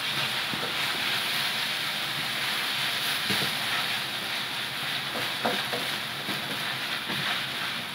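Spice paste and onions sizzling steadily in a wok over a wood fire, stirred with a bamboo spoon that knocks faintly against the pan now and then.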